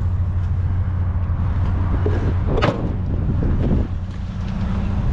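Vehicle engine idling steadily, a low hum, with a few short clanks and rustles of items being handled about halfway through.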